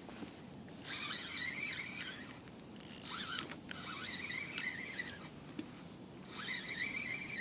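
Fishing reel being wound in three short bursts, each a whirring with a slightly wavering pitch.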